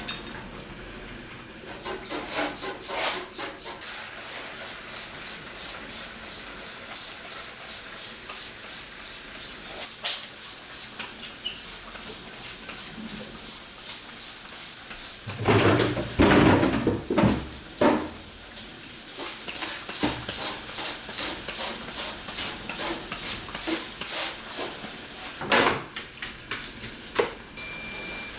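Rhythmic back-and-forth scrubbing, about three strokes a second, with a louder stretch of clattering and knocking in the middle and a single knock near the end.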